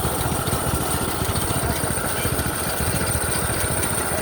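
Small minibike engine running steadily with a rapid low chugging.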